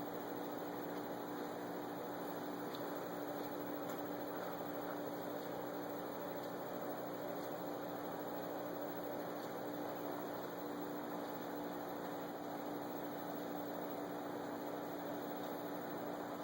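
Steady electrical hum with an even hiss, unchanging throughout.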